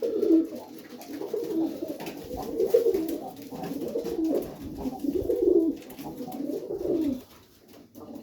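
Pigeons cooing in a loft, one low warbling coo after another with several birds overlapping, easing off near the end.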